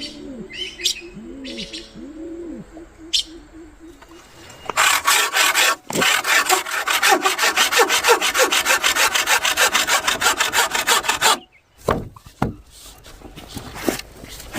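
Hand saw cutting through wood with rapid back-and-forth strokes, starting about five seconds in and stopping suddenly about eleven seconds in. A few knocks follow before the sawing starts again at the end.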